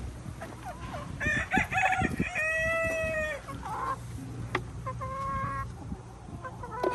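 Rooster crowing once, starting about a second in and ending on a long held note; a shorter call follows a couple of seconds later.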